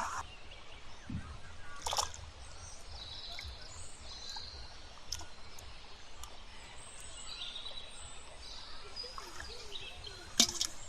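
Open-air rural ambience: birds chirping faintly over a steady low rumble. Two short sharp sounds stand out, one about two seconds in and a louder one near the end.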